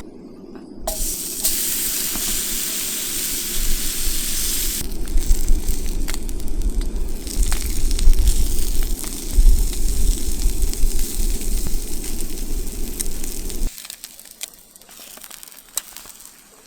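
Portable camp stove burning steadily: a loud hiss for the first few seconds, then the burner's steady rush with scattered crackling, until it cuts off suddenly about 14 seconds in.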